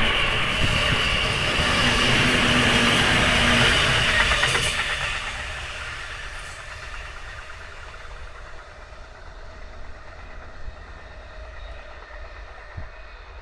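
Electric trains passing at a level crossing, with loud wheel-on-rail running noise for about the first five seconds. The sound then fades as the trains move away.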